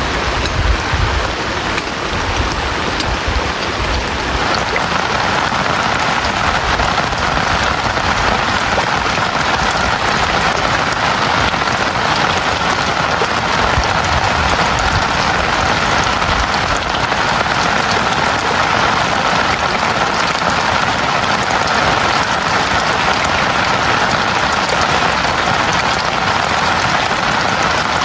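Heavy rain falling steadily, with a dense hiss of many drops striking a surface.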